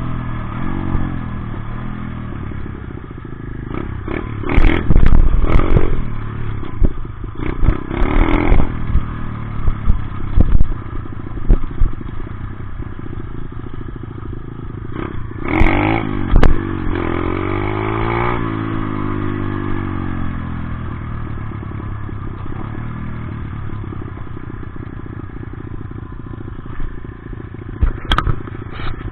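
Dirt bike engine running throughout, its revs rising and falling, with several loud knocks and clatters in the first half, in the middle and near the end.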